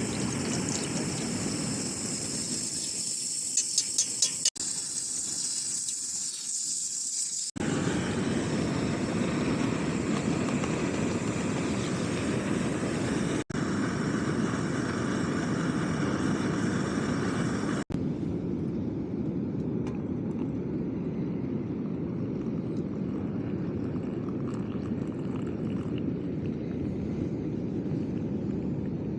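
Steady rushing noise of strong wind and ocean surf on an open beach, broken by a few brief gaps where clips are cut together. A quick run of four or five sharp clicks sounds about four seconds in.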